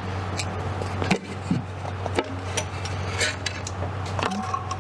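Scattered light clinks and taps of metal engine parts being handled during a V8 teardown, over a steady low hum.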